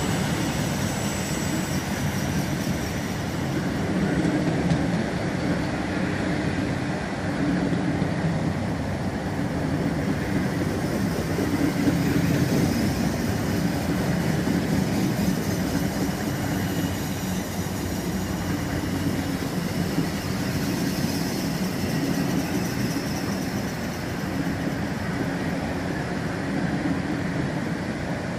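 Container wagons of a long intermodal freight train rolling past over points, a steady rumble and rattle of wheels on rail.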